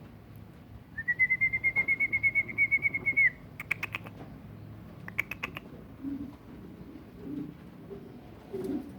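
Birds in a pigeon loft: first a high, even trill of quick repeated notes, about eight a second for two seconds. Two short bursts of rapid clattering follow, then pigeons cooing low a few times.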